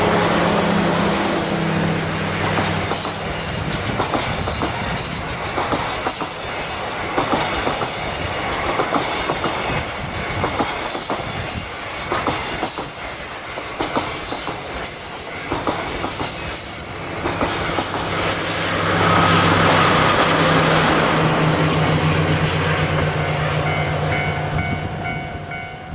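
A freight train with DD51 diesel-hydraulic locomotives at both ends passing. The lead locomotive's engine comes first, then a long run of wagons with rapid clickety-clack of wheels over rail joints. About three-quarters of the way through the steady engine note returns as the rear DD51 pushes past, and the sound falls away at the end.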